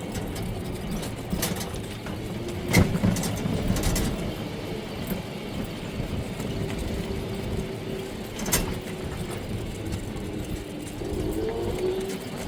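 A small vehicle running, with a steady motor whine that drifts slightly up and down over a low rumble, and two sharp clicks about a third and two thirds of the way through.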